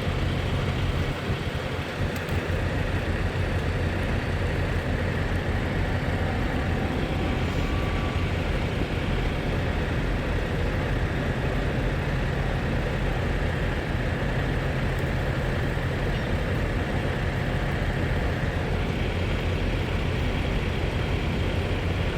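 Steady low hum of a motor vehicle engine idling, unchanged throughout.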